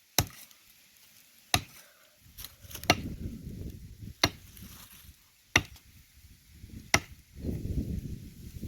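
Six sharp chopping blows into a dry, hard tree trunk, evenly paced about one every second and a half, with a low rumble between some of the blows.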